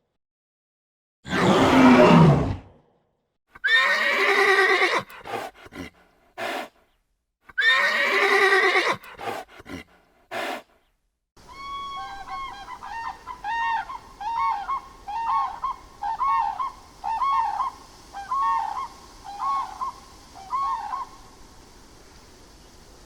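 A sequence of animal calls. First a loud call falling in pitch, then several whinny-like calls, then a run of short repeated calls, each rising and falling, about one a second, which stop near the end.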